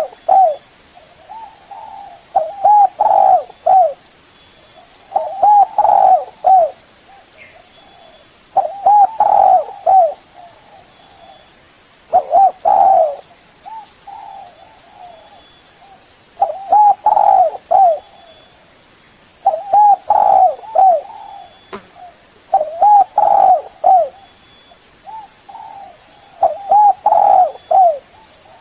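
Spotted dove cooing: short phrases of a few coos repeated about every three to four seconds, with softer coos between them.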